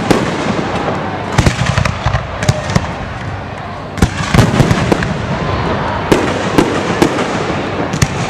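Fireworks bursting overhead: an irregular string of sharp bangs and pops, several coming close together, over a steady rumbling background.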